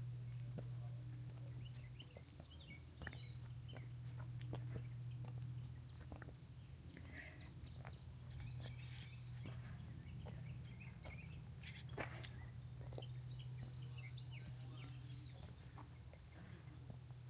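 Insects calling in a steady, unbroken high-pitched drone, with scattered small clicks and knocks over it.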